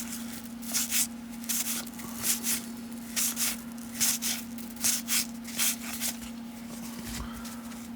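1991 Topps baseball cards being flipped through by hand, one card sliding off the stack after another in short papery swishes about twice a second, stopping about six seconds in.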